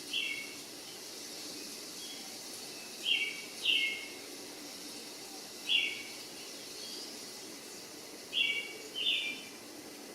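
A bird calling repeatedly: six short calls that each step down in pitch, some coming in quick pairs, over a steady hiss.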